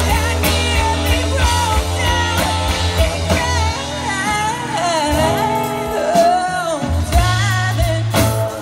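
Live rock band playing with a lead singer, the voice gliding over a steady bass line that drops away for a couple of seconds midway.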